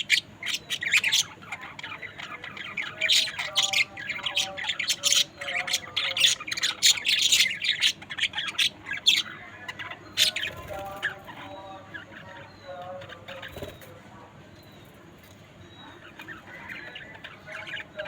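Budgerigars chattering, a dense run of short, sharp chirps that thins out about two-thirds of the way through, leaving a few faint calls before the chatter picks up again near the end.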